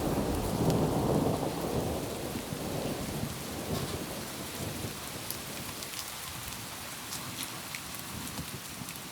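Steady rain with scattered sharp drop ticks, under a low rumble of thunder that dies away over the first few seconds.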